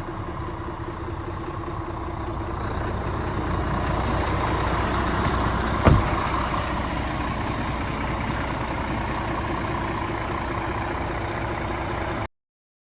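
Scania R450 tractor unit's 13-litre straight-six diesel engine running, growing louder from about two seconds in. A single sharp thump lands about six seconds in, and the sound cuts off abruptly near the end.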